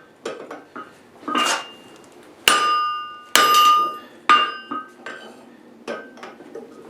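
Blacksmith's hammer striking steel on an anvil: lighter taps, then three heavy blows about a second apart, then more light taps. Each blow leaves a high metallic ring from the anvil.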